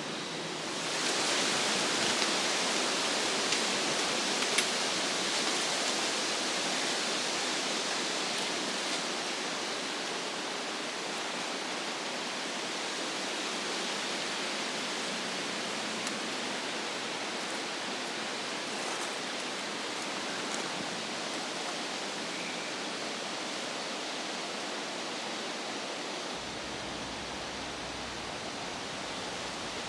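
Wind rushing through the forest trees, a steady noise that swells about a second in and then slowly eases, with a couple of faint clicks.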